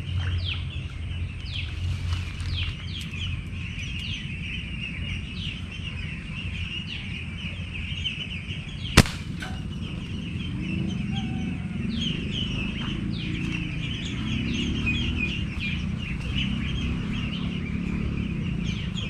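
Birds chirping continuously in many short, quick, falling chirps. A single sharp snap cuts through about nine seconds in.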